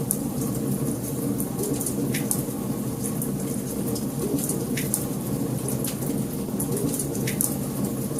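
Wood fire burning in a fireplace: a steady low roar of the flames with constant small crackles, and a few louder pops about two, five and seven seconds in.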